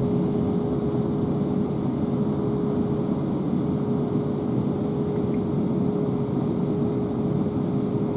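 Interior running noise of a South Western Railway Class 444 electric multiple unit: a steady low rumble with a constant single-pitch hum over it.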